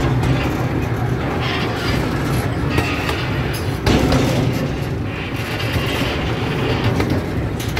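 Miniature ride train rolling along its track, heard from the car behind the locomotive: a steady rumble of wheels on rail with occasional knocks, the clearest about four seconds in.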